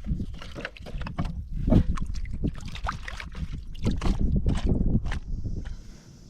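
Water sloshing and splashing, with irregular knocks and rustles of handling, over a low rumble. It dies away about six seconds in.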